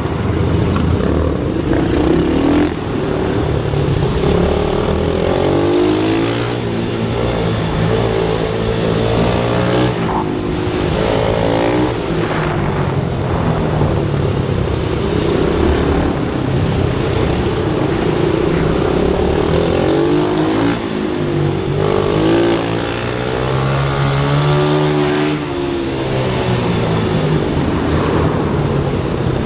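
Pit bike engines revving, rising and falling in pitch over and over as the bikes accelerate and ease off on a track.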